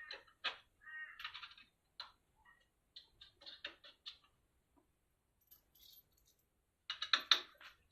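Irregular small metallic clicks and clinks of nuts, bolts and bracket parts being handled and fitted by hand, with a quick cluster of clicks near the end.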